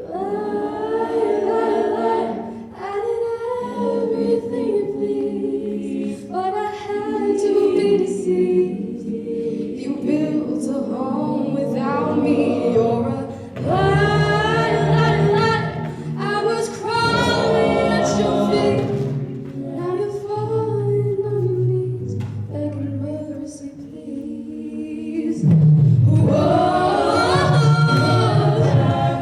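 Choir singing a cappella in held chords, several voices together, swelling louder near the end.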